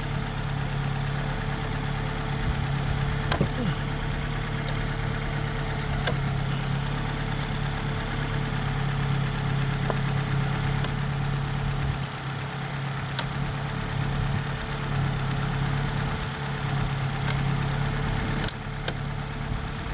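Ford Focus four-cylinder engine idling steadily, with a few sharp clicks scattered over the steady hum.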